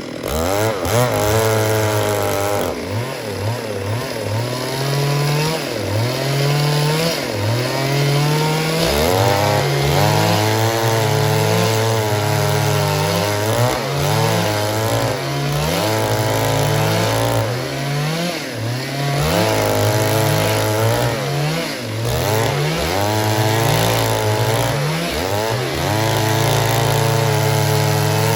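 Stihl MS 382 two-stroke chainsaw running at high revs. Its engine pitch repeatedly drops and climbs back, many times over, as the throttle and load change.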